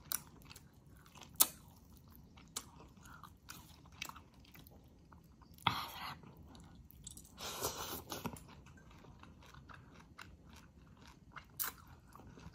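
Close-up chewing and mouth sounds of a person eating chicken and mustard greens in coconut milk, with scattered sharp smacking clicks and two longer, louder bites about six and eight seconds in.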